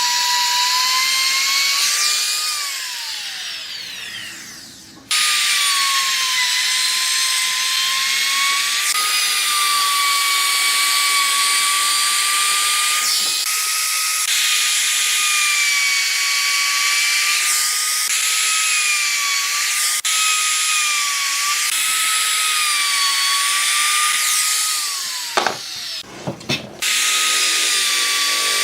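A small high-speed electric power tool's motor running with a steady high-pitched whine that wavers slightly under load. It winds down with falling pitch about three seconds in, starts again at full speed about five seconds in, and winds down again near the end.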